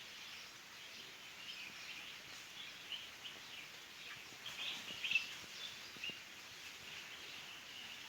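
Small birds chirping in many short, scattered calls over a faint steady background hiss.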